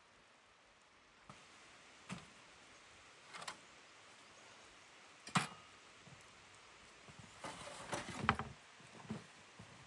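A handful of short knocks and clatters over a faint steady background, the sharpest about five seconds in and a quick run of them about eight seconds in.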